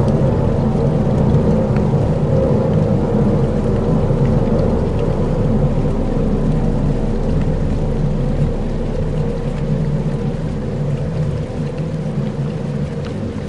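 Dark ambient soundscape: a deep rumbling drone with sustained low tones under a rain-like hiss with scattered faint ticks, easing off slightly near the end.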